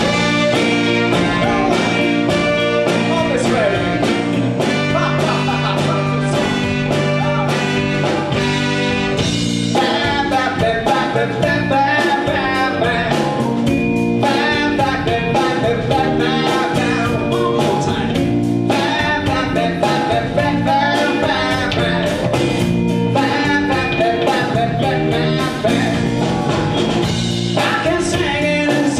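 Live band playing a bluesy rock number, with singing and guitar over a steady beat.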